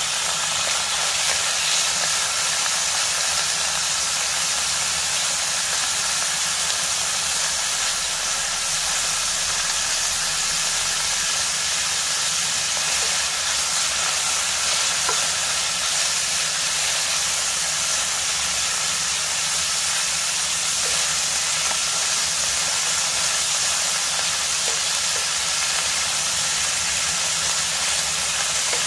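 Cubed pork belly and green pepper frying in a pan, a steady sizzle throughout.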